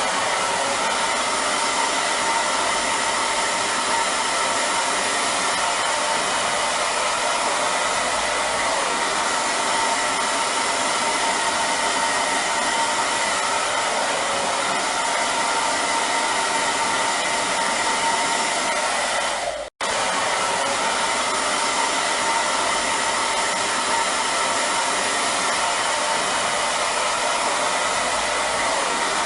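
Hair dryer running steadily: a continuous rushing blow with a faint whine, cut by a momentary silent gap about twenty seconds in.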